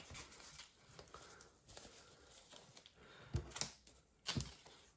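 Faint handling noise of small kit parts and their packaging being picked up in gloved hands, with two brief sharper clicks or crinkles about three and a half and four and a half seconds in.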